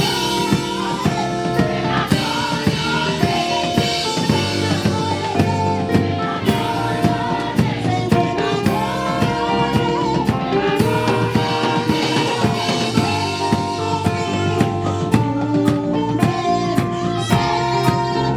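Live gospel music: a choir singing over a band with drum kit keeping a steady beat.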